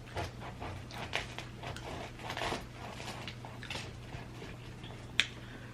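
A knife sawing through a Philly cheesesteak sub roll in short, irregular scraping strokes, with one sharp click about five seconds in.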